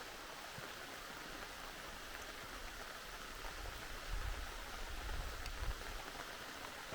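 Steady rain falling, an even hiss, with a low rumble for a few seconds in the middle.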